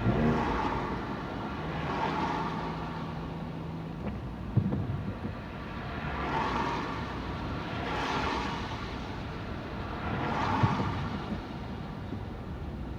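Cars passing one after another on a wet road, their tyres hissing. About five pass, each swelling and fading over a second or so.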